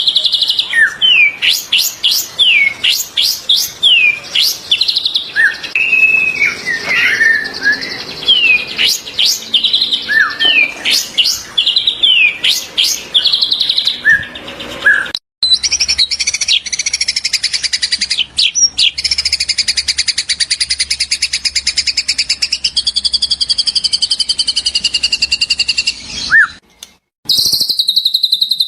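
Recorded songbird song, typical of a white-rumped shama: sharp, loud down-slurred whistles repeated in quick phrases. About halfway through it cuts to a steady, fast buzzing trill that wavers in pitch, and after another short break a high sustained phrase starts near the end.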